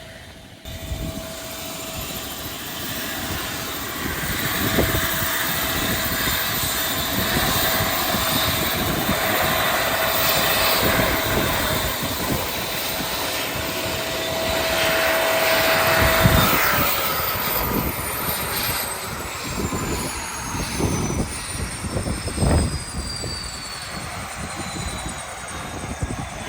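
Helicopter turbine engine and rotor running, a dense steady roar with a high whine. About two-thirds of the way through, the whine starts falling steadily in pitch.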